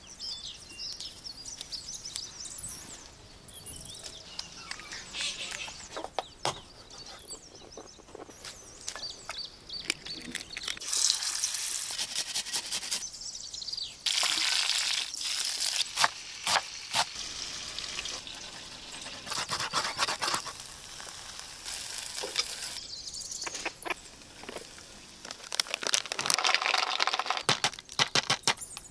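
A run of cooking sounds: birds chirping outdoors while herbs are picked, then chicken pieces sizzling in hot oil in a pot as a wooden spatula turns them. Near the end, walnuts are cracked open in their shells with sharp cracks and knocks.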